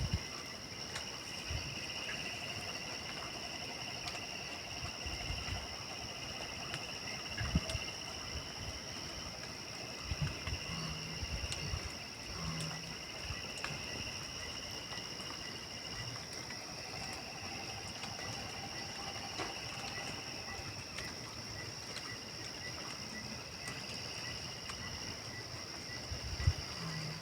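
Night insects, crickets among them, chirring steadily in several high pulsing voices, with a few low thumps and faint clicks.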